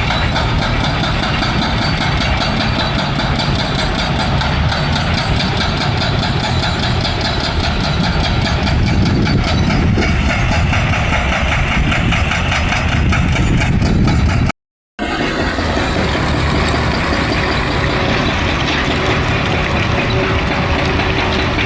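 Excavator engine running steadily, with a brief gap where the sound drops out completely about two-thirds of the way through.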